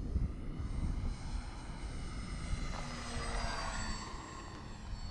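Distant whine of the E-flite Valiant RC airplane's electric motor and propeller in flight. Its pitch drops slightly about three seconds in as it passes, over wind rumbling on the microphone.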